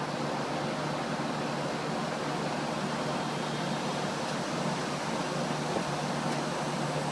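1977 Payne central air conditioner's outdoor condenser unit running steadily after start-up: an even rush of air with a constant low hum beneath it.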